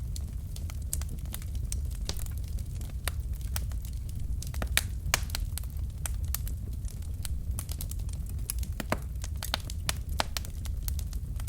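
Log fire burning in a fireplace, crackling: irregular sharp pops and snaps, several a second, over a steady low rumble of the flames.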